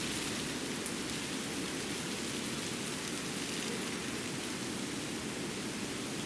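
Steady hiss of water outdoors, like rain or running water, with a few faint drip-like ticks.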